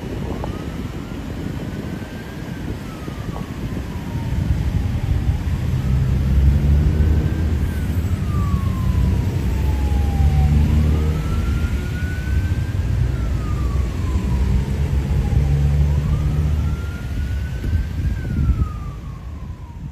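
Emergency vehicle siren on a slow wail, rising and then falling back four times, over a heavy low rumble that grows louder about four seconds in.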